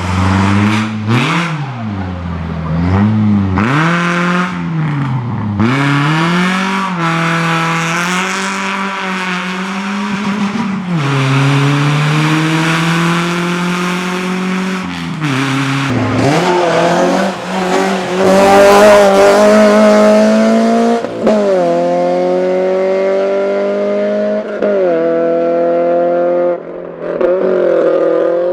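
Race car engine at full throttle on a hillclimb course, revving up and down in quick swings for the first several seconds, then pulling through the gears in longer climbs, each ended by a sharp drop in pitch at the shift.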